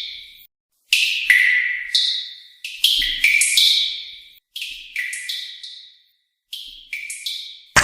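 High bell-like chime tones, struck in irregular clusters of two or three, each ringing out and fading within about a second.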